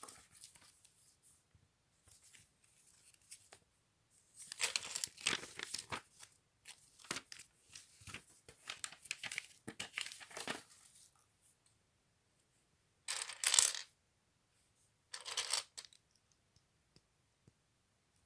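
Plastic packaging being torn open and crinkled by hand, in irregular bursts, with two short, sharper rustles near the end.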